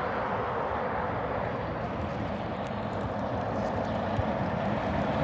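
Truck traffic on a road: a steady rush of road noise that slowly grows louder toward the end as a vehicle approaches.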